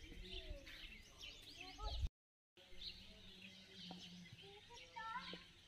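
Several small birds chirping and calling, with faint outdoor background noise. The sound cuts out completely for about half a second about two seconds in.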